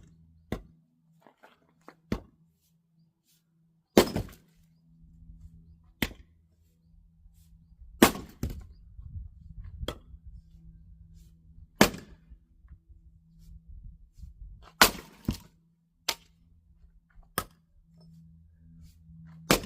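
A German axe splitting oak firewood: about a dozen sharp chopping strikes, one every one to two seconds, some followed by a short clatter of wood. A faint steady low hum runs underneath.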